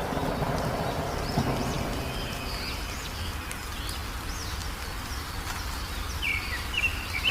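Small birds chirping faintly and intermittently over a steady low rumbling background noise, with a few sharper chirps near the end.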